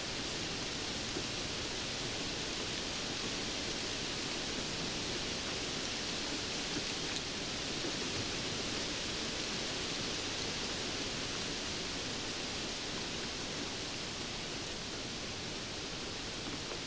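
Steady rain falling, an even hiss with the odd faint patter tick.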